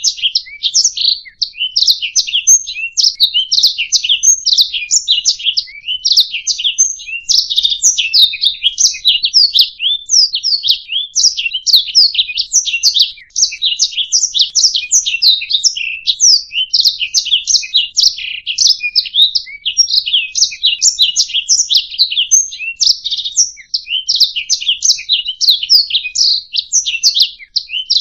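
Domestic canary singing a long, unbroken song of quick chirps and rolling trills.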